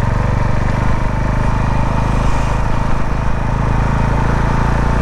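Single-cylinder Herald motorcycle engine running at a steady speed while under way.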